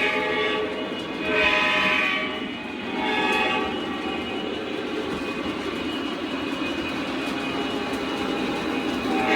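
Lionel O-scale Kansas City Southern locomotive's onboard sound system blowing its horn: the end of one blast, then two more short blasts in the first few seconds. After that a steady engine rumble and the rolling of the model train on the track.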